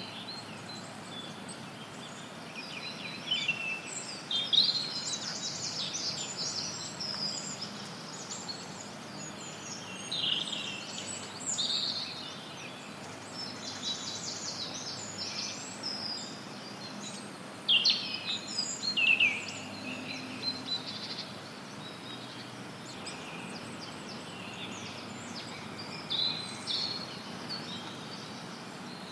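Several forest birds chirping and singing in bouts of quick, high calls, with quieter gaps between, over a steady hiss of added white noise.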